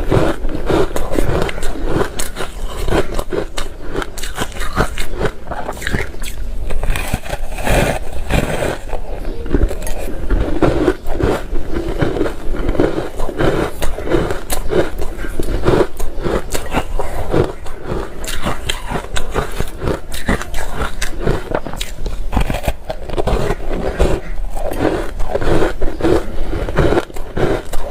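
A person biting and chewing ice: dense, continuous crunching with many sharp cracks, heard close up.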